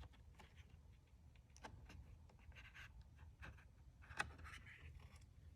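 Faint rustling and light clicks of paper being handled: an old card album's pages moved under the hands, with one sharper click about four seconds in.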